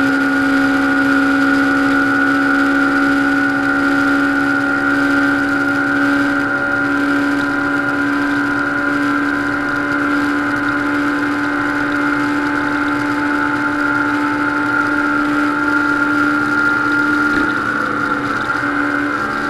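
Honda CBR500R's parallel-twin engine running at steady high revs at speed, a constant droning tone that wavers slightly near the end.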